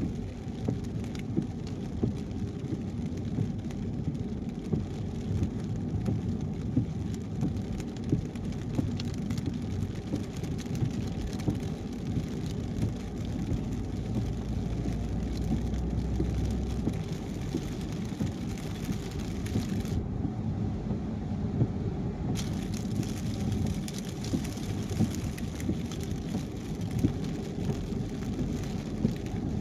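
Car driving on a wet highway in the rain: a steady low rumble of tyres and engine, with small sharp ticks of rain hitting the car. About two-thirds of the way through, the higher hiss drops away for a couple of seconds, then returns.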